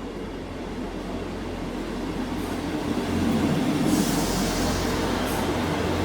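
A train running past, its rumble growing louder to a peak about four seconds in, with a brief high hiss at the loudest point.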